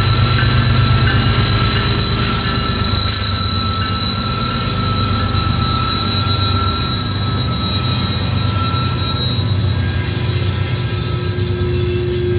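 Freight train passing close by. The BNSF diesel-electric locomotives' engines run heavily at first and ease off after about five seconds as the covered hopper cars roll past. A steady high-pitched wheel squeal carries on throughout.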